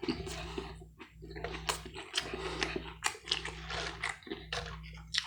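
A person chewing and biting food close to the microphone: irregular wet clicks and crackles of mouth sounds, over a steady low hum.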